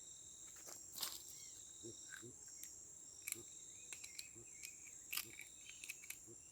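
Steady, high-pitched insect chorus trilling, with scattered light clicks and a few faint chirps over it.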